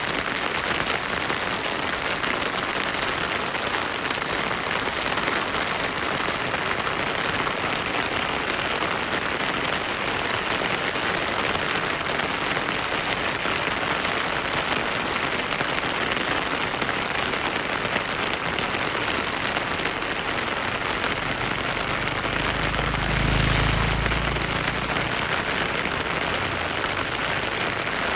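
Heavy rain pouring steadily in a forest with a stream, a dense, even hiss. About three-quarters of the way in, a brief low rumble swells and fades beneath it.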